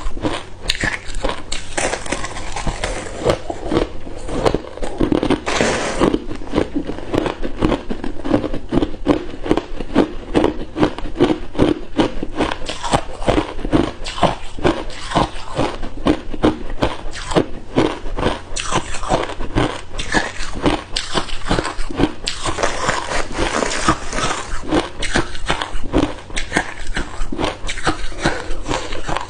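Hard ice cubes being bitten and chewed close to the microphone: a continuous run of sharp, rapid crunches and cracks.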